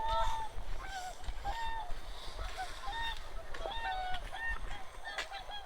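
A flock of wild geese honking, many short calls overlapping without a break.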